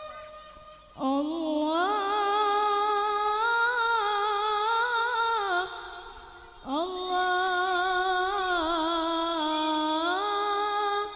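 Solo voice singing two long wordless melismatic phrases, each about four to five seconds, with held notes and gliding ornaments and a short breath break between them.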